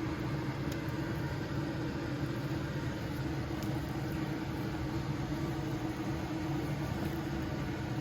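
Steady electric fan hum from a running kitchen appliance, with a constant low tone and no change in level.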